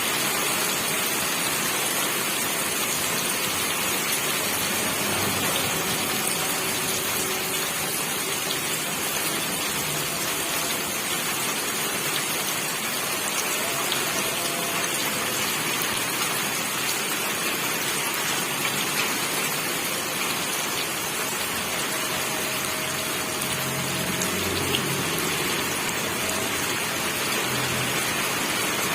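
Steady rainfall, an even, unbroken hiss of rain falling on surfaces.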